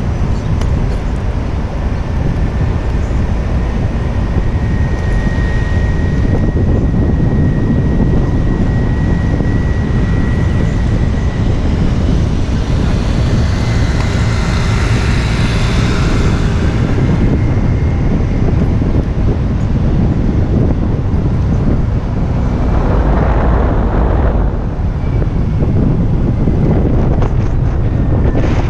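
Wind rumbling and buffeting on an action camera's microphone while cycling, with city street traffic underneath. A louder rushing noise swells about halfway through, and a faint thin steady tone is heard in the first third.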